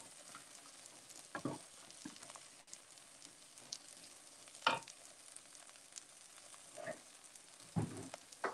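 Faint sizzling of food cooking on a gas hob, with a few short sounds of a wooden spatula stirring a thick tomato and bread mixture in a steel pot.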